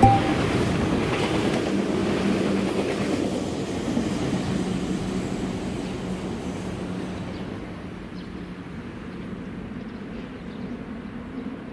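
A train passing on the line, loudest at the start, its running noise dying away over several seconds, with a steady hum for a few seconds in the middle.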